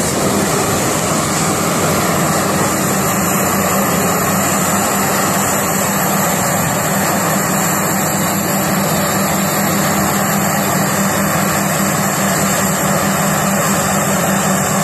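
Heavy farm machinery running steadily: a constant engine drone with broad mechanical noise, unchanging throughout.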